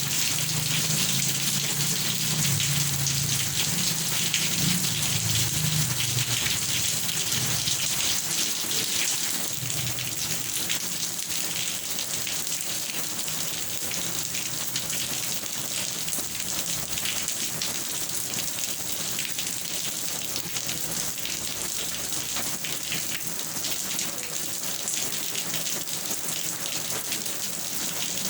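Steady heavy rain: a dense patter of drops hitting a surface, with a low rumble underneath during the first several seconds that fades away.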